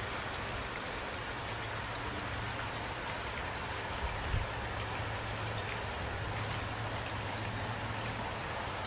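Steady rain with scattered individual drop ticks, over a low steady hum, with a couple of soft low thumps about four seconds in.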